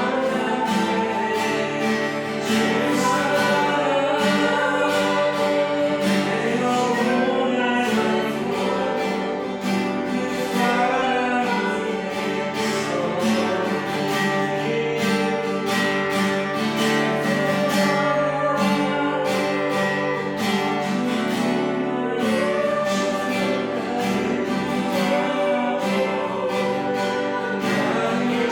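Congregational worship song: voices singing together over guitar accompaniment.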